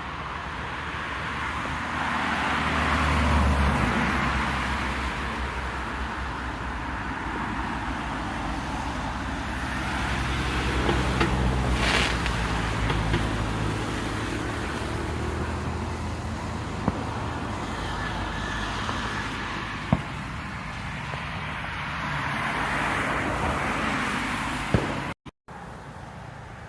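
Road traffic: cars passing one after another, each swelling and fading, with a few short, sharp cracks in between.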